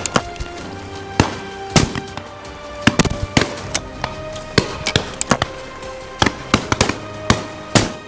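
Shotguns firing irregularly from a line of guns at driven pheasants, often two or three shots a second, over background music with steady held notes.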